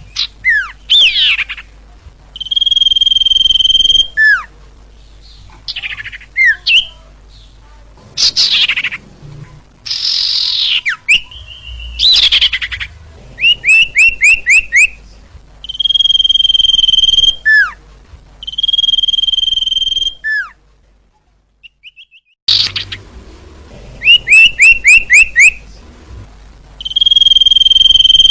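Song of the bird known in Indonesia as sirtu, played for luring: the phrases repeat over and over. They run long steady whistles of about a second and a half, quick runs of five or six down-slurred notes, and sweeping calls, with a short break a little past the middle.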